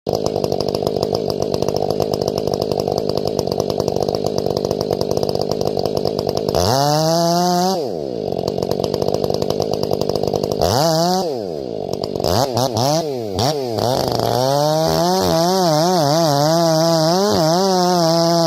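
Two-stroke chainsaw idling roughly, then revved up twice with drops in between, blipped several times, and held at high revs from about fifteen seconds in.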